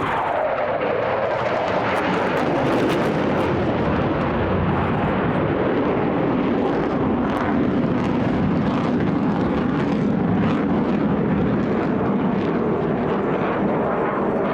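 Spitfire Mk XIX's Rolls-Royce Griffon engine as the aircraft flies past: its note falls in pitch at the start, then it drones steadily.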